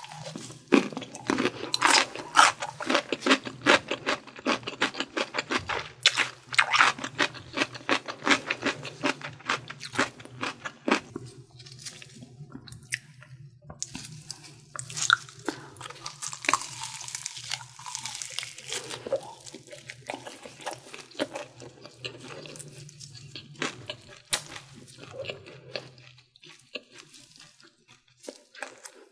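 Close-up crunching of pickled radish cubes being chewed, many quick crisp crunches for about ten seconds. Partway through comes a crackling bite into fried chicken, then softer chewing, over a low steady hum that stops near the end.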